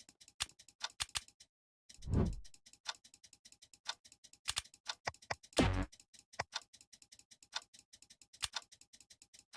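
Fast clock-like ticking with a deep boom about every three and a half seconds. The ticking drops out briefly about a second and a half in.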